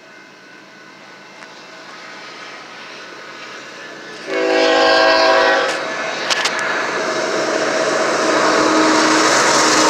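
An approaching Union Pacific freight train. Its locomotive horn sounds a chord about four seconds in, lasting over a second, then the rumble of the oncoming train grows steadily louder.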